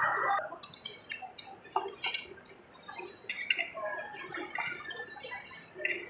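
Light, scattered clinks of cutlery on plates, with faint chatter from other diners. Background music cuts off just after the start.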